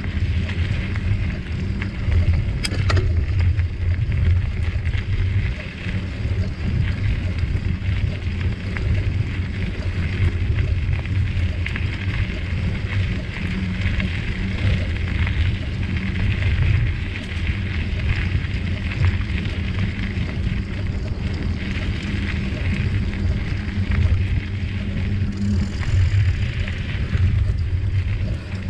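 A bicycle being ridden: a steady rush of tyre and drivetrain noise over a constant low wind rumble on the microphone.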